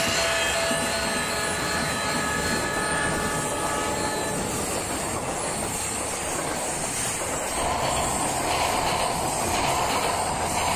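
A train running: a steady rumble and hiss, with a few faint steady tones that fade out about four seconds in.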